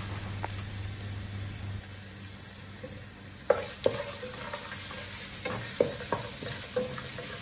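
Shredded ginger sizzling in hot coconut oil with whole spices in a stainless steel pot. A wooden spatula stirs it and knocks against the pot several times from about three and a half seconds in.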